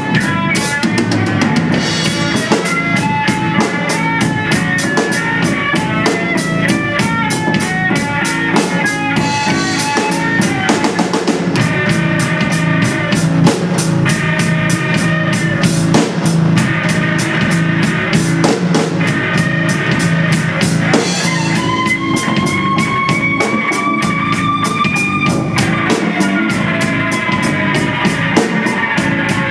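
Live band music: a drum kit played with fast, even strokes under a pitched lead instrument running busy melodic lines. Near the end the lead holds one long note that slowly rises in pitch.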